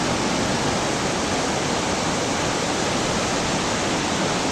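Waterfall in high flow: a steady, loud rush of falling water.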